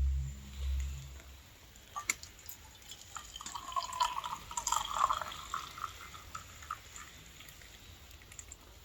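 Water briefly pouring and dripping into a container, with scattered small clicks and knocks; the pour is loudest a few seconds in and then dies away.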